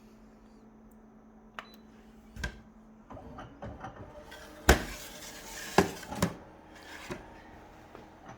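Objects being handled on a hard surface: a scattered series of knocks and clinks, the loudest a sharp knock about halfway through, with two more soon after.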